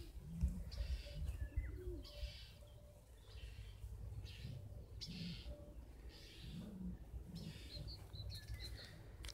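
Birds singing, with short high phrases about once a second and a quick run of chirps near the end, over a low rumble of wind on the microphone.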